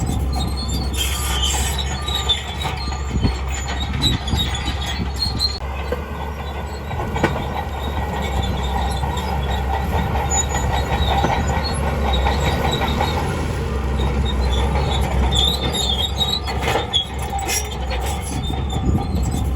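Crawler bulldozer running, its engine a steady low hum, with the steel tracks squealing and clanking now and then.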